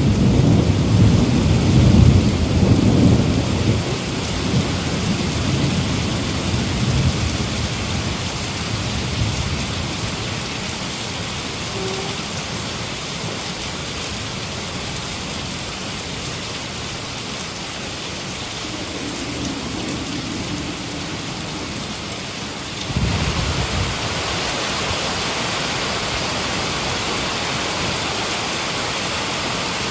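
Heavy rain falling steadily, with a thunder rumble in the first few seconds that dies away. About two-thirds of the way through, the rain abruptly changes to a slightly louder, brighter, more even hiss.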